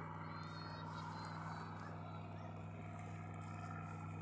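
Steady low engine hum holding one even pitch, with faint background noise above it.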